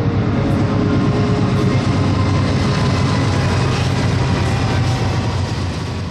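Train rolling past on the track: a loud, steady rumble and clatter of rail cars.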